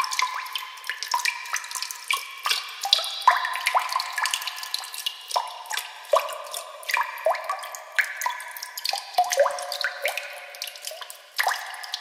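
Water dripping into water: a quick, irregular run of small drops, each a short plink that rises in pitch.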